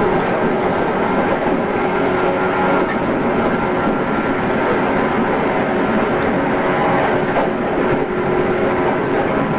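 JR East 113 series electric train running at a steady speed, heard from inside the carriage: a continuous rumble of wheels on rail with a steady motor and gear hum. It is a cassette-tape recording.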